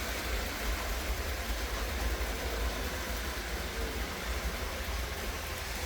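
Steady low rumble with a faint hiss, consistent with LEGO 9V electric trains running around the track.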